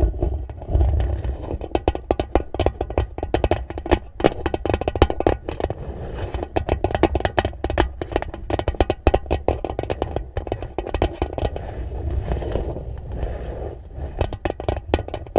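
Raindrops pattering on a tin box: a dense, irregular stream of small taps on thin metal, with a low rumble underneath.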